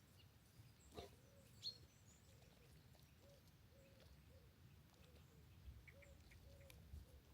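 Near silence with faint bird chirps and a few soft, short repeated calls in the background.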